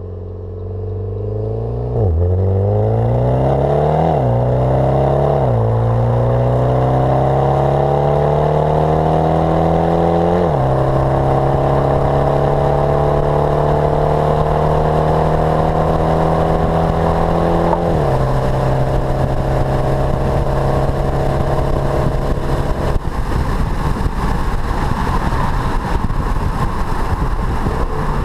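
Mitsubishi Lancer Evolution X MR's turbocharged 2.0-litre four-cylinder accelerating hard through a catless turbo-back Milltek exhaust. Its pitch climbs steadily and drops sharply at each of several quick upshifts. After the last long pull the engine note gives way to a rumbling, noisy sound as the car stops accelerating.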